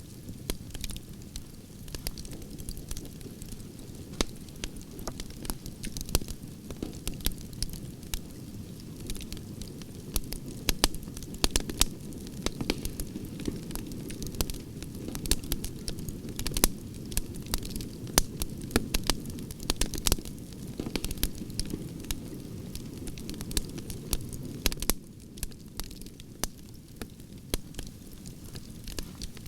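Wood fire burning, its logs crackling and popping irregularly over a steady low rush of flame. The pops come a little thinner for a few seconds near the end.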